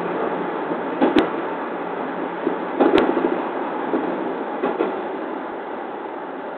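JR East 209 series electric train running, heard from inside the driver's cab: a steady rumble of running noise with pairs of sharp clicks about every two seconds as the wheels cross rail joints.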